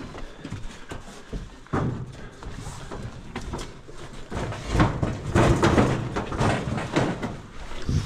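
Irregular knocks and thumps of heavy objects being lifted, handled and set down, loudest in a cluster from about five to seven seconds in.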